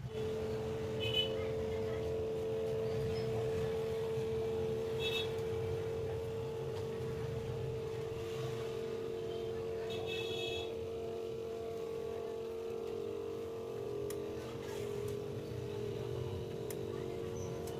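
A steady machine-like hum holding one constant mid-pitched tone over a low rumble, with three short high chirps about one, five and ten seconds in.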